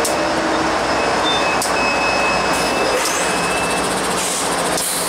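BNSF double-stack freight train, diesel locomotive and container cars, passing close by with a steady loud rumble and rush of wheels on rail. A thin high wheel squeal is held through the first few seconds, and there are a few sharp clicks.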